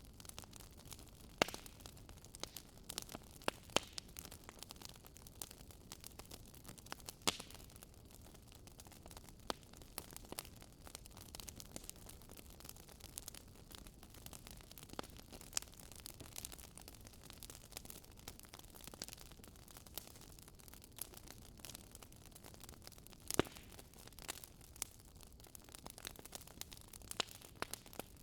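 Fireplace fire crackling: a steady low hiss with frequent small snaps and a few louder pops scattered through.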